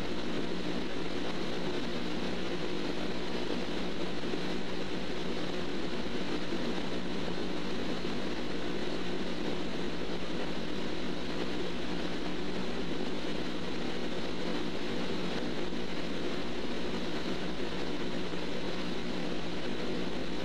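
Steady, unchanging hum and hiss of background noise in a slowed, processed cell-phone recording, with no speech.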